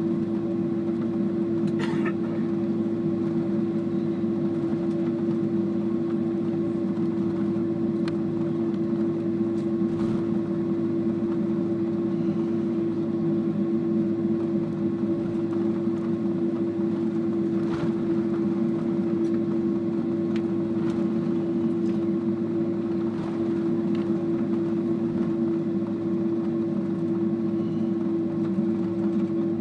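Airliner cabin noise while taxiing after landing: the jet engines at idle and the cabin air system give a steady hum with one constant tone, broken by a few faint knocks.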